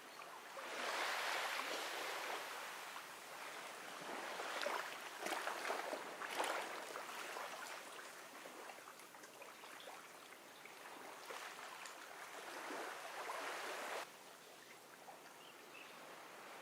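Small ocean waves washing onto a beach: swells of rushing, fizzing water that rise and fall every few seconds. The wash drops off suddenly near the end.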